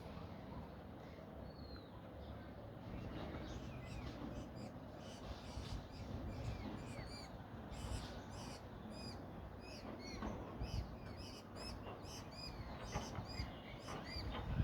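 Nightingale singing: a fast run of short, curving chirps and whistles, sparse at first and coming thickly from about four seconds in, over a steady low background noise.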